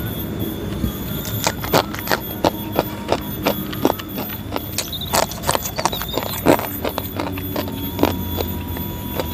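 Close-up chewing of crunchy fried snacks, a quick irregular series of sharp crunches, several a second, starting about a second in.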